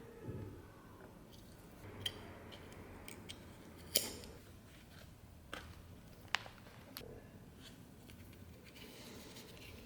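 A few sharp light clicks and taps at irregular intervals, the loudest about four seconds in, over a faint low hum: small hard objects being handled.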